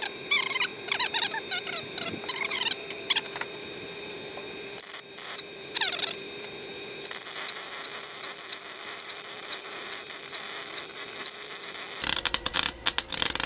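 Wire-feed (MIG) welder arc hissing steadily on steel plate, breaking into loud, stuttering crackle near the end as the weld runs longer than a tack. A few short squeaky chirps sound in the first few seconds, over a steady hum.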